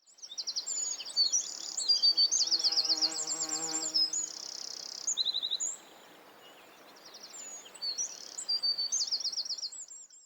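Small birds chirping, with rapid high trills and short swooping calls overlapping. The calls thin out for about a second and a half around the six-second mark, then pick up again.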